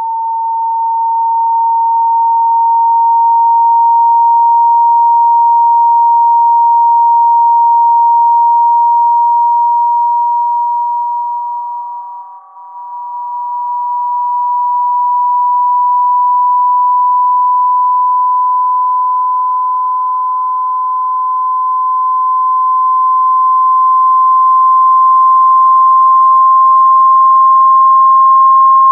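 A single steady electronic tone near 1 kHz, slowly rising in pitch, with a brief dip in loudness about twelve seconds in: a speaker-cleaning tone played to vibrate water out of a phone's speaker.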